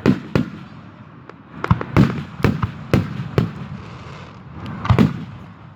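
Aerial fireworks shells bursting in a rapid series of booms, about nine in under six seconds, with a short lull before a closely spaced pair near the end.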